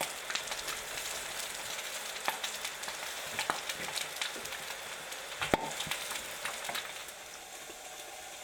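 Food sizzling and crackling in hot fat in a frying pan, with a single sharper knock about five and a half seconds in; the sizzle dies down somewhat near the end.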